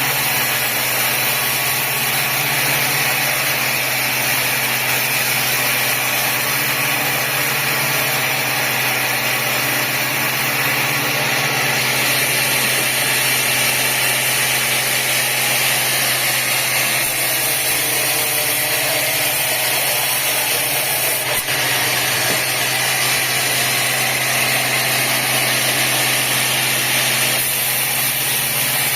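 Sawmill machinery running steadily: a constant engine drone under a loud, even hiss that gets brighter about twelve seconds in.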